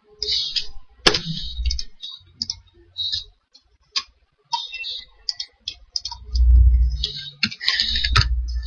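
Computer mouse and keyboard clicking in irregular short runs, with dull low thumps, the loudest about six and a half seconds in.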